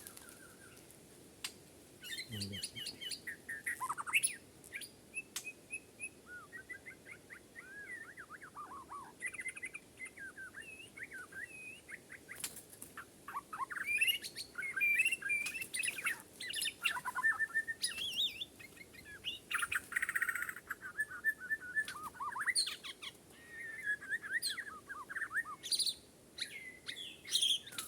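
White-crowned shama singing: a long run of short, varied whistled and warbled phrases with sharp clicks between them.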